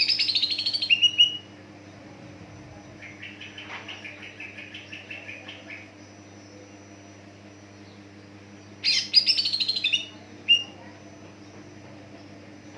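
Green leafbird (cucak ijo) singing: two loud bursts of rapid chirping notes that fall in pitch, each about a second long, one at the start and one about nine seconds in, with a softer run of quick notes between them.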